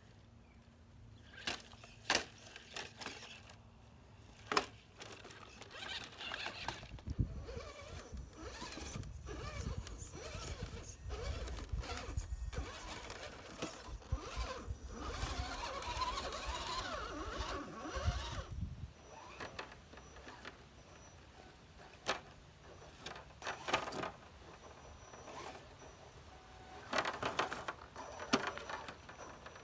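Radio-controlled scale crawler truck working over a trail course: its small electric motor and gears whine, with irregular clicks and knocks from tyres and chassis on rock. A heavier stretch of grinding runs from about 7 s to 19 s.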